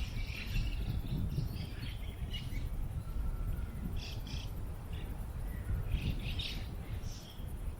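Small birds chirping in short bursts every second or two, over a steady low rumble of wind on the microphone.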